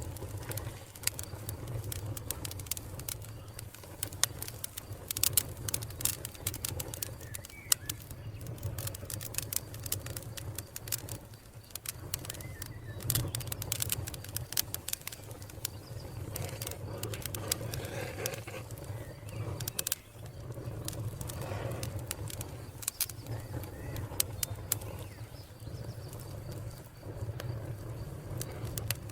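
Wood fire crackling and popping continuously, with sharp snaps over a steady low rumble. A dove coos softly now and then in the background.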